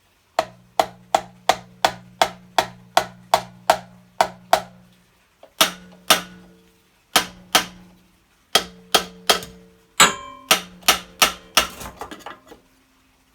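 Heavy hammer striking metal again and again to shock a stuck flywheel loose from an old Honda generator engine's crankshaft; each blow rings. About a dozen steady blows come first, then shorter groups after brief pauses, with a quicker flurry near the end.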